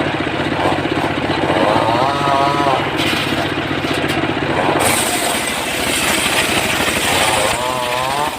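Engine-driven wood saw running under load while cutting mahogany, its pitch wavering. A hiss of cutting comes in about five seconds in.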